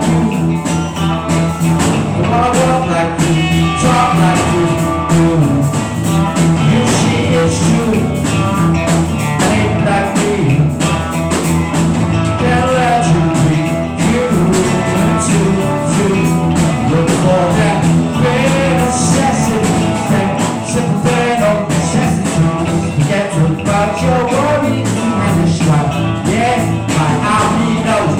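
A rock band playing an improvised rock-and-roll jam with guitar and a steady bass line, a melodic line bending in pitch above it.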